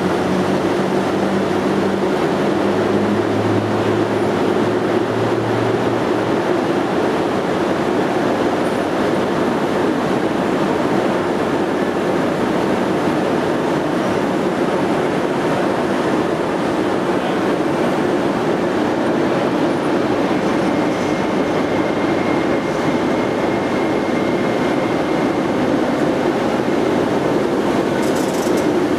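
Train running on the rails, with a steady rushing rumble throughout. A low tone is heard in the first few seconds, and a faint high whine is heard about two-thirds of the way through.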